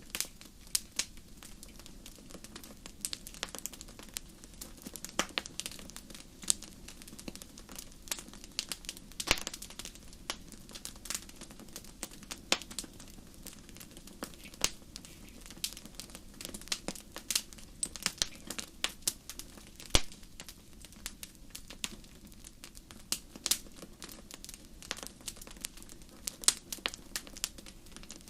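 Wood fire crackling in a fireplace: irregular sharp pops and snaps, several a second, some louder than others, over a steady low rush.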